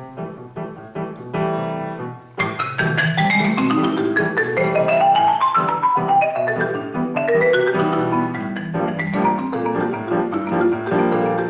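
Marimba played with mallets in fast passagework: a few separate strikes, then from about two seconds in a louder rapid run of notes climbing in pitch and coming back down.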